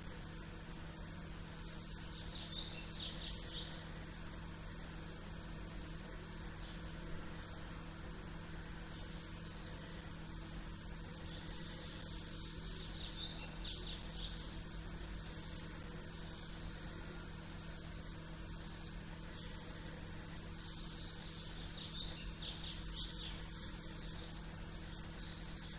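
Small birds chirping in short clustered bursts of high calls, on and off, over a steady low background hum.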